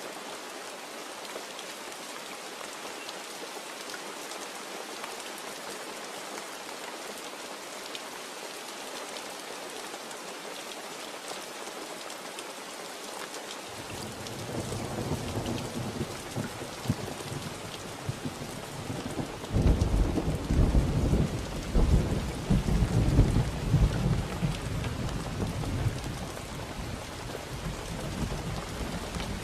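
Steady rain falling, with a thunder rumble coming in about halfway. The thunder grows loudest in the last third, then eases off while the rain goes on.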